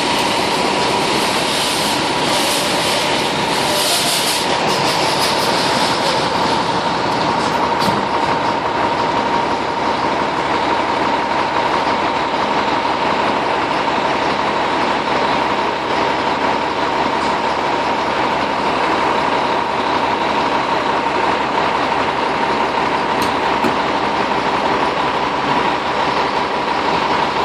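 A fire engine responding with its siren sounding continuously at a steady pitch over loud rushing noise.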